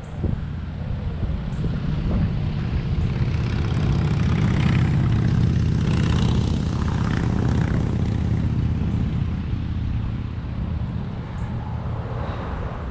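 Low engine rumble of a passing vehicle, swelling to its loudest about midway and then fading.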